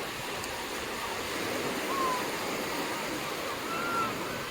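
Ocean surf washing onto the beach in a steady rush, with a few faint, brief voices in the distance.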